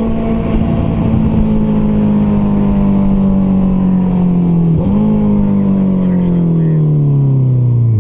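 Honda CBR650F's inline-four engine through an Akrapovic titanium exhaust, changing up a gear right at the start, then slowing with the revs gradually falling. About five seconds in a quick downshift blips the revs up, and they sink steadily again toward the end as the bike slows.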